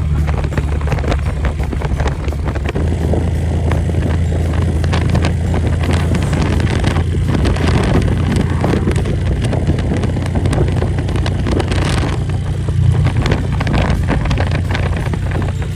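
Motorcycle engine running at a steady pitch on the road, with wind rushing over the microphone.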